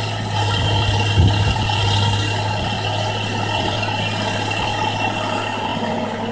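Kobelco excavator's diesel engine running steadily, with a steady high whine over it and a brief knock about a second in.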